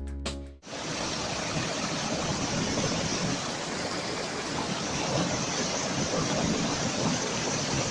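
A few notes of music that stop about half a second in, then a steady, even rushing noise.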